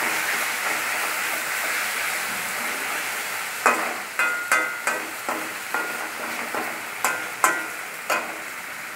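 Sliced onions sizzling in hot oil in a stainless steel kadai. About a third of the way in, a metal spatula starts stirring them, scraping and clinking against the pan about a dozen times, each stroke with a short metallic ring.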